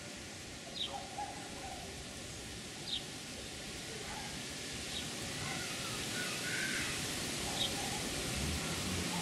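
A bird giving short, high chirps every two to three seconds over a steady outdoor hiss that grows a little louder in the second half.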